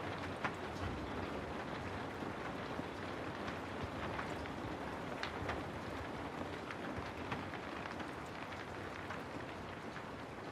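Steady rain falling, a constant hiss with scattered small drop clicks.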